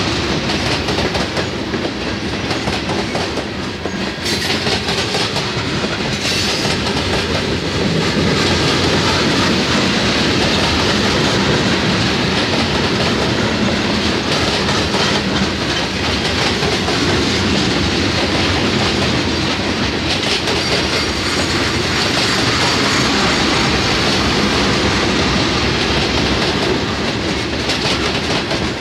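Loaded coal hopper cars of a long freight train rolling past, their steel wheels on the rails making a loud, steady clatter of rapid clicks.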